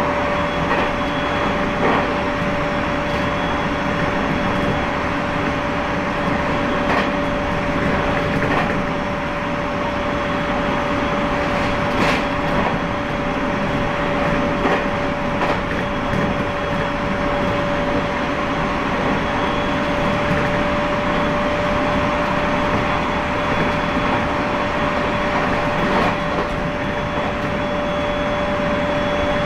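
Inside the rear car of an Aomori Railway train running at steady speed: a continuous rolling rumble with a constant whine, and a few sharp clicks now and then.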